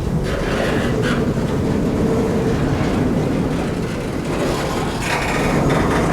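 Canadian Pacific freight train rolling slowly past with a steady low rumble and a few clacks of wheels over the rail. It gets a little louder and hissier about five seconds in.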